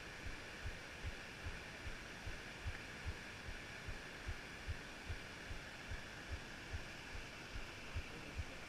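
A hiker's footsteps on a trail climb, heard as dull, regular low thumps about two to three a second through a body-worn camera, over a steady hiss.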